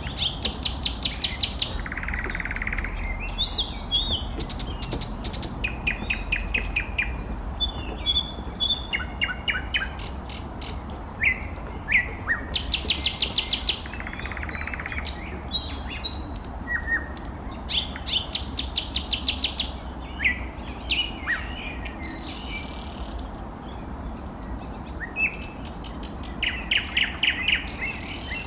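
Nightingale singing: a string of varied song phrases, each a rapid clicking trill or a run of short whistles and glides, with brief pauses between phrases. A steady low rumble lies underneath.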